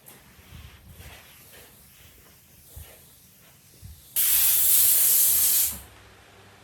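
A loud hissing blast of air or spray starts abruptly about four seconds in, holds steady for about a second and a half, then stops. Faint handling knocks come before it.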